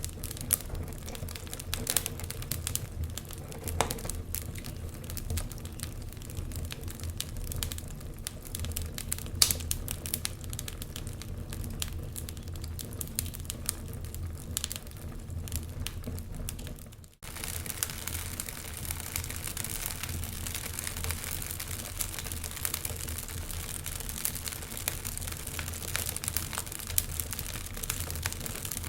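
Wood fire crackling, with irregular sharp pops and snaps over a steady low rumble. About seventeen seconds in the sound drops out for a moment and resumes as a denser, hissier crackle.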